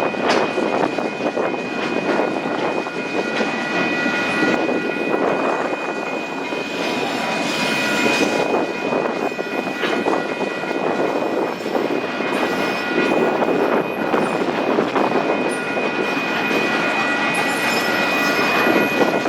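Diesel-hauled freight train running past: a steady rumble with several steady high tones held throughout.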